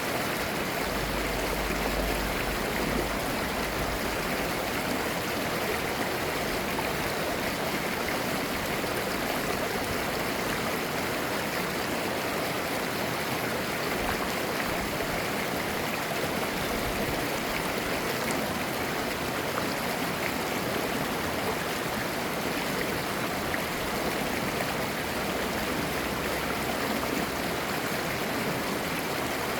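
Mountain stream flowing over rocks, a steady, even rush of water with babbling.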